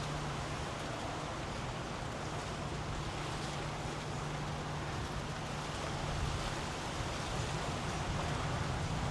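Steady outdoor background noise: an even hiss over a constant low hum.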